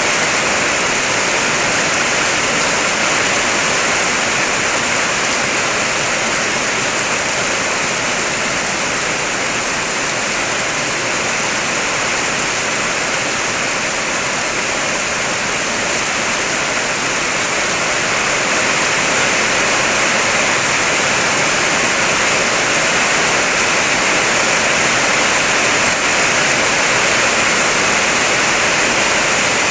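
Heavy rain on a car, heard from inside: a dense, steady hiss of drops on the roof and windows.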